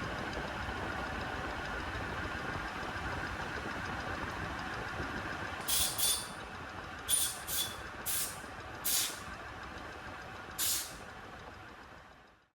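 A workshop machine, likely the lathe, running steadily with a hum. About halfway through, a series of about seven short, sharp hisses cuts in, before the sound fades out near the end.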